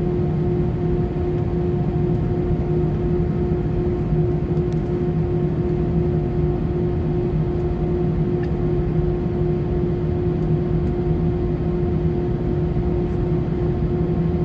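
Steady engine drone: a constant hum over a low rumble, holding the same pitch and level throughout.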